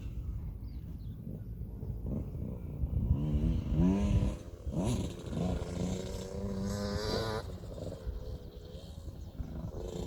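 Single-cylinder two-stroke engine of a KTM 65 SX motocross bike revving up and down while riding. The pitch climbs steeply several times between about three and five seconds in, holds steady for a moment, then drops away.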